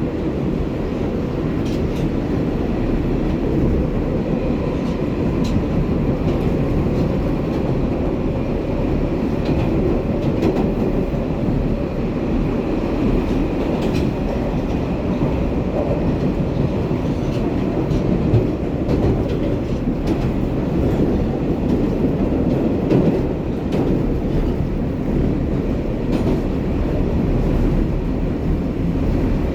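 Inside an R188 subway car on the 7 line running at speed through the tunnel: a steady rumble of wheels on rail, with scattered clicks from the track.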